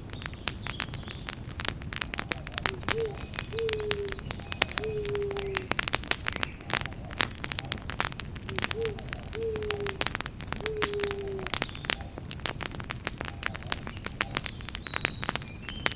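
Campfire crackling, with dense sharp pops and snaps over a steady low rumble of burning. A bird gives two sets of three low hoots, each a short note sliding downward, about three seconds in and again about nine seconds in.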